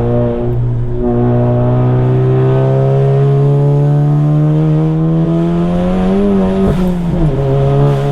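Volkswagen MK7 Golf GTI's turbocharged 2.0-litre four-cylinder, on an EQT Stage 2 tune, pulling under acceleration: the revs climb steadily for several seconds, then fall with a gear change about seven seconds in.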